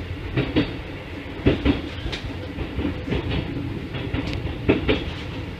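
Keikyu 1500 series electric train running, heard from the cab: its wheels clack over rail joints in quick pairs, four double clacks over a steady rolling rumble.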